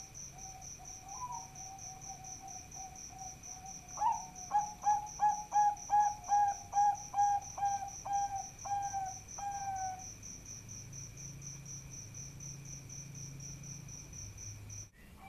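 Zebra dove (Bangkok perkutut) cooing: a low drawn-out note, then from about four seconds in a run of about a dozen quick, even coo notes that stops near the middle. A high-pitched chirping pulse, about four a second, runs steadily behind it, and everything cuts off abruptly near the end.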